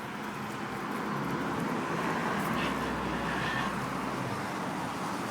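Street traffic: a car passing by, its tyre and engine noise swelling to a peak around the middle and then fading.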